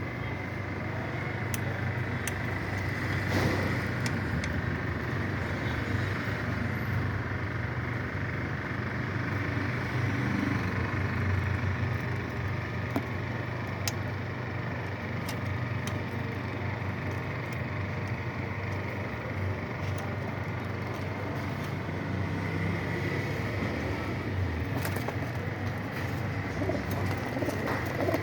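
Pigeons cooing over a steady low hum, with a few scattered clicks.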